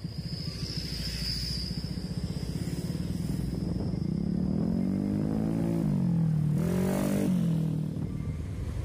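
A vehicle engine running steadily, then revving up from about four seconds in, dipping briefly, climbing again and dropping back near the end. A brief rushing noise comes as it peaks, and a thin high whine sounds over the first couple of seconds.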